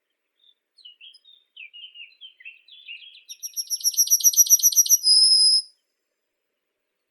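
A songbird singing one phrase: soft, varied twittering, then a rapid trill of repeated high notes that grows louder, ending in a short held high note near six seconds in.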